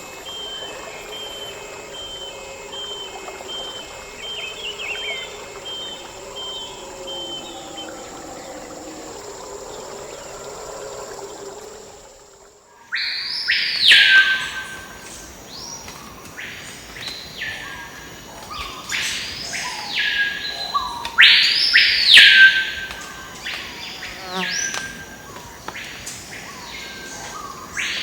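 Rainforest insects and birds: a steady high insect buzz with quick repeated chirping, then, after a sudden change about halfway, loud bird calls, each sweeping up and back down, repeated every second or two.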